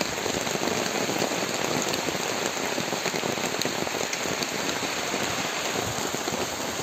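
Heavy rain falling steadily on a plastic tarpaulin shelter overhead, a dense even hiss with individual drops ticking sharply now and then.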